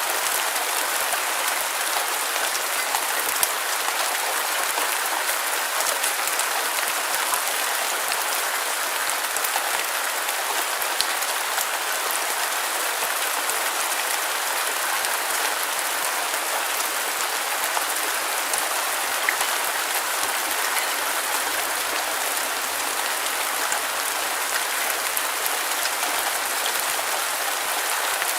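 Steady rain sound: an even hiss of dense rainfall with faint scattered drop ticks, thin and without any deep rumble.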